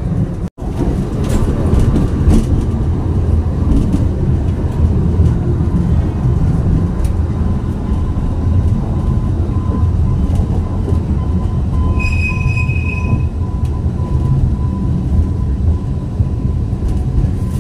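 Alishan Forest Railway passenger train running into a station, heard from inside the carriage: a steady low rumble, with a faint thin whine through the middle and a brief high metallic squeal about twelve seconds in.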